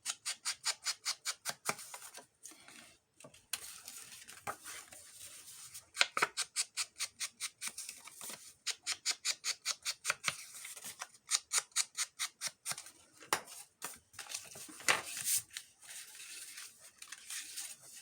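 Scissors snipping through paper in quick runs of about five or six crisp cuts a second, several runs of a second or two with short pauses between them.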